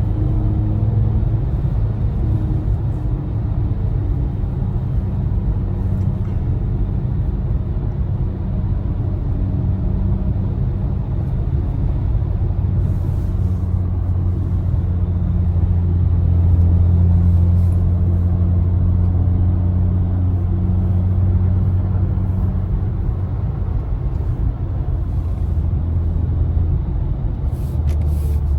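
2024 BMW i4 M50 electric car driving on a back road: a steady low rumble of road and tyre noise with a low hum, growing a little louder about halfway through.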